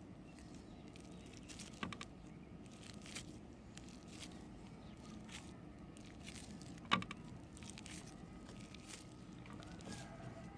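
Faint crunching and crinkling with scattered small clicks as bars of soap are handled, with a sharp click about seven seconds in.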